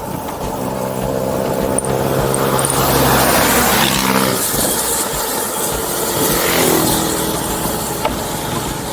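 A motor vehicle drives past close by: engine hum and tyre noise swell to a peak about three seconds in, then fade with the pitch dropping. A second, smaller pass follows near the end, over a steady engine drone from other traffic.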